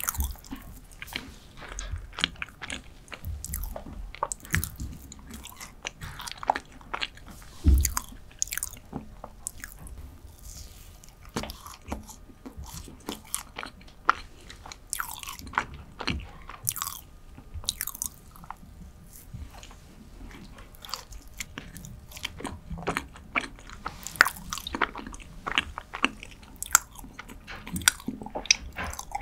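Close-miked chewing of a soft, dense dark chocolate cheesecake, with many short wet mouth clicks and smacks and an occasional low thump.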